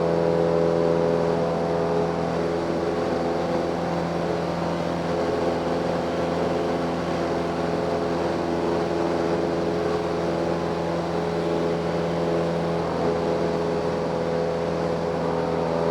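Cessna 172M's four-cylinder Lycoming engine and propeller running steadily at power in the climb just after takeoff, a constant drone with an even, unchanging pitch.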